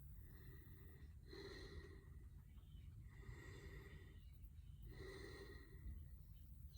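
Faint, regular breathing, likely through the nose, with a slight whistling tone on each breath, about one breath every second and a half to two seconds.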